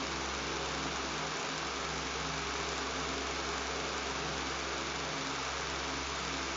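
Electric fan running steadily, an even rushing hiss with a low buzzing hum under it.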